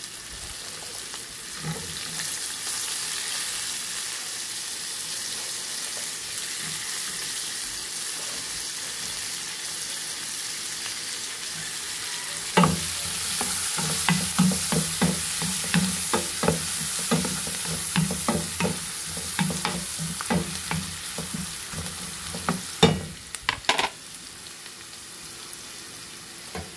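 Chopped onions and ginger sizzling in melted butter in a frying pan: a steady hiss. From about halfway through, a wooden spatula knocks and scrapes against the pan as they are stirred, stopping a few seconds before the end.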